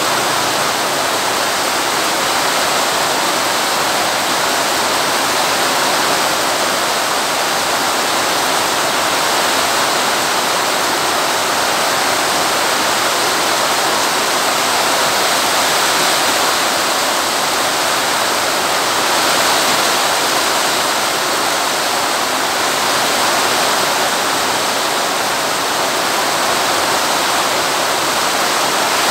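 Very heavy rain pouring down steadily, drumming on a concrete yard and streaming off the roof eaves in a continuous loud rush.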